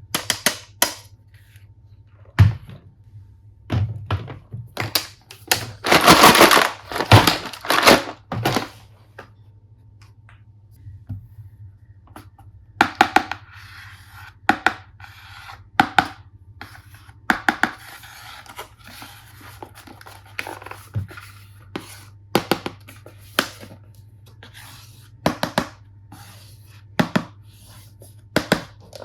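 Toy packaging being opened and handled: scattered clicks and taps of plastic, with a loud tearing of wrapping about six seconds in, then more rustling and clicking.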